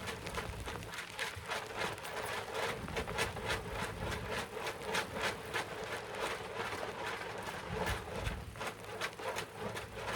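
Fishing reel being cranked while a hooked catfish is fought in, giving a rapid, regular clicking of about four clicks a second.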